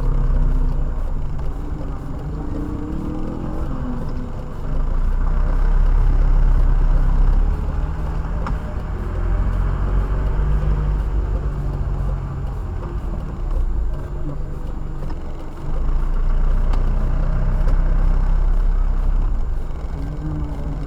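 Car driving, heard from inside the cabin: steady engine and road rumble, which swells louder for a few seconds twice, about five seconds in and again about sixteen seconds in.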